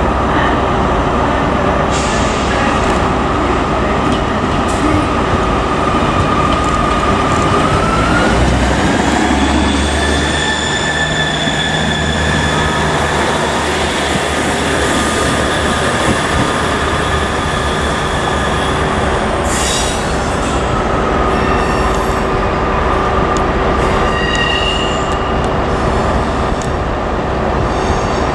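A Northern passenger train in the station, running with a steady rumble and whine. The whine rises in pitch about eight seconds in, holds, and falls back about twenty seconds in. A brief hiss comes just before it falls.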